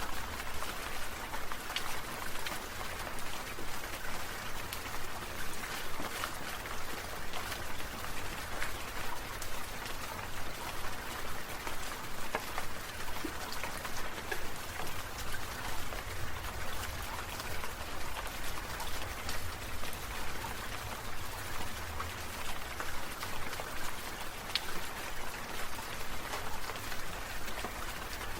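Water sprinklers spraying, their drops pattering steadily on the ground like rain, with a low rumble underneath.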